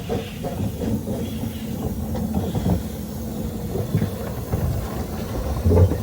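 Narrow-gauge Ffestiniog Railway train rumbling, with irregular clanks and knocks and some hiss of steam; the heaviest knock comes near the end.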